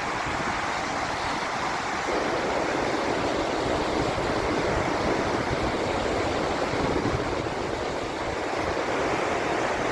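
A river's water rushing, a continuous steady noise that thickens slightly about two seconds in.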